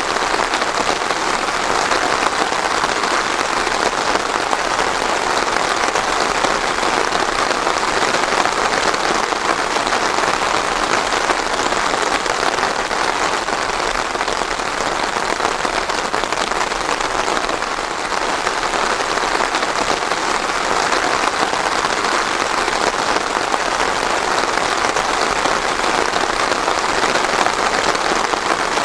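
Steady heavy rain falling on a surface, an even continuous patter with no thunder.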